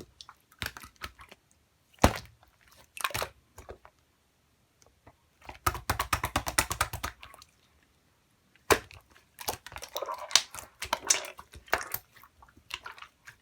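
Clear slime being squished and pressed by hand, giving bursts of quick sticky clicks and small pops, with short silent pauses between handfuls. A single sharp pop stands out about two seconds in, and another near nine seconds.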